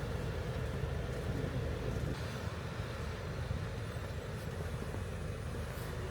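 Off-road truck driving, a steady low engine and road rumble.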